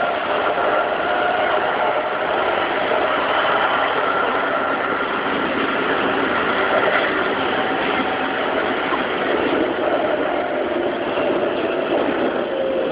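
Keikyu 2100-series electric train running along the line, heard from behind the driver's cab: a steady rumble of wheels on rail with a faint whine from the traction motors and gears, one tone sinking slightly in pitch near the end.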